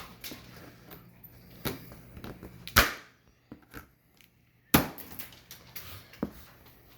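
Packing straps on an appliance's cardboard carton being cut and pulled off: two sharp snaps about two seconds apart, with light knocks and rustling of the box around them.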